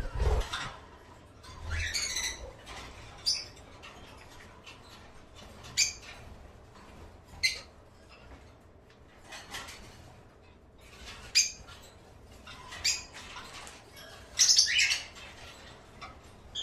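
Small caged birds chirping in short, separate high calls every second or two, with a longer, louder burst of calls about three-quarters of the way through. A couple of low thumps near the start.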